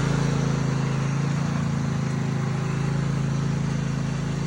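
Small garden-tractor engine of a 22-horsepower Husqvarna lawn tractor with hydrostatic drive, running steadily at an even speed.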